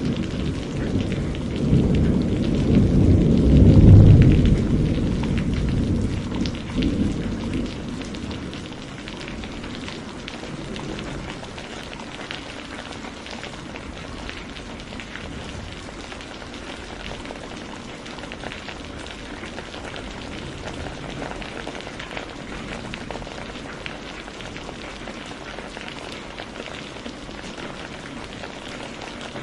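Steady rain falling, with a long rumble of thunder in the first several seconds that swells and then dies away, leaving the even hiss of rain.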